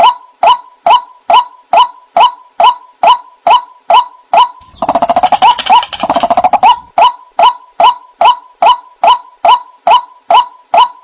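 White-breasted waterhen (ruak-ruak) calling: a short call note repeated evenly, a little over two times a second. About halfway through it breaks into a couple of seconds of faster, denser chattering.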